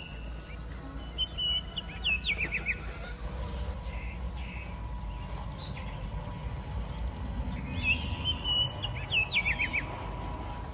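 Birdsong: the same short phrase of chirps is heard twice, once about a second in and once near the end, with a higher trill in between, over a steady low rumble.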